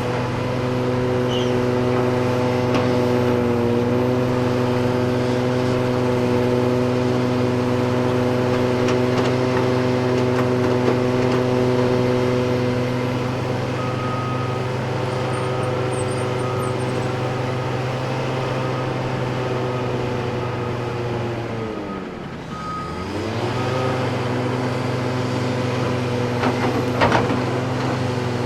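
Heavy diesel engines of excavators and haul trucks running steadily under load. About three-quarters of the way through, the engine note dips in pitch and then climbs back. Through the middle, a faint backup alarm beeps at an even pace.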